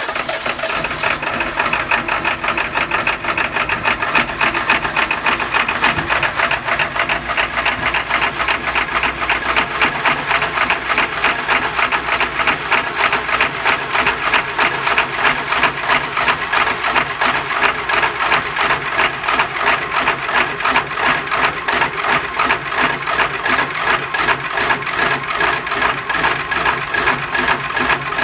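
Ford F350 Super Duty engine running just after a cold start, with a rapid, even pulsing from the stack exhaust pipes.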